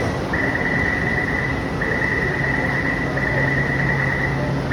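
Metro train door-closing warning tone: a single high beep repeated in long pulses of just over a second, with short gaps between them, signalling that the doors are about to close and the train is departing. A steady low hum from the train runs underneath.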